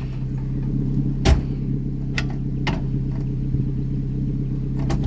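Mazda Protege's engine idling steadily, with several sharp knocks on top, the loudest about a second in, as the steering wheel is worked against a rusted steering shaft that it won't slide onto.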